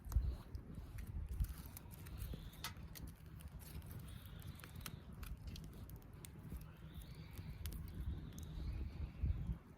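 Wood fire crackling, with irregular sharp pops over a low rumble.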